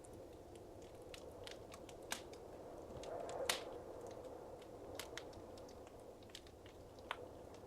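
Wood fire crackling in a fireplace: scattered sharp pops and snaps over a low steady hiss. The loudest pop comes about halfway through, just after a brief swell of the hiss.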